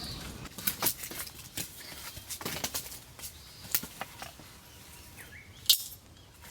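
Scattered light clicks and knocks of objects being handled, with one sharp knock near the end, over a faint outdoor background and a brief bird chirp.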